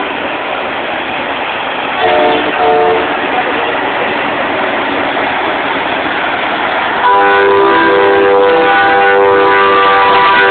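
Truck air horns sounding in chords of several steady tones: a short blast about two seconds in, then a long held blast from about seven seconds on, over a steady rushing background noise.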